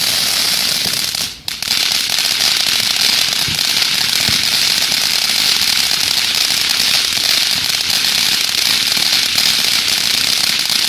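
A lit firework fountain hissing steadily as it burns, with a brief dip about a second and a half in.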